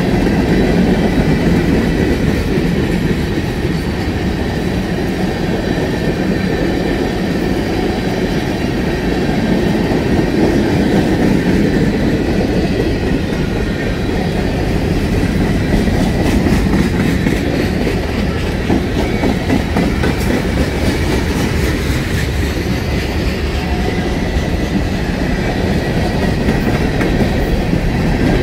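Freight train cars rolling past at close range: a steady, loud rumble of wheels on rail, with the wheels clicking over the rail joints.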